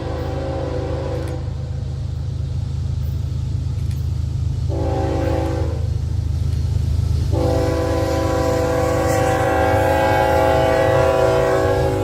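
Diesel locomotive's multi-chime air horn sounding a chord: a long blast ending about a second in, a short blast near the middle, then a long blast held to the end. This is the long-short-long close of the grade-crossing signal. A steady low rumble of the locomotive's diesel engine runs underneath.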